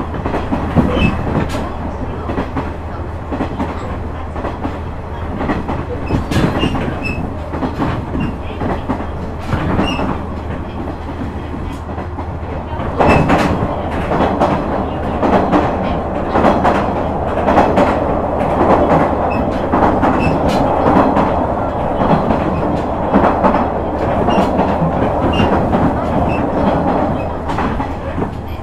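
KiHa 126 series diesel railcar running along the line, heard from inside the car: a steady diesel hum with the rhythmic clack of wheels over rail joints. About 13 seconds in, the running noise gets suddenly louder and stays up.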